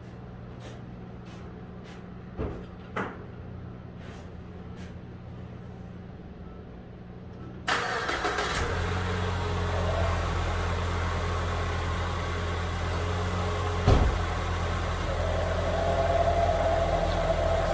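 2015 Ford Escape's 1.6-litre four-cylinder engine starting suddenly about eight seconds in, then idling steadily. Before the start there are faint regular ticks and two short knocks, and there is a single thump a few seconds after the engine catches.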